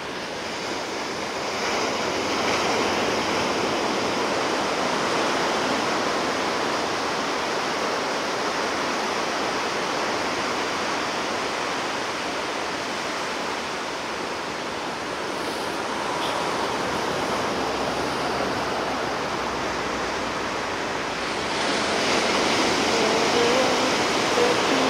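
Sea surf washing ashore in a steady rush of noise, swelling a little as waves break, about two seconds in and again near the end.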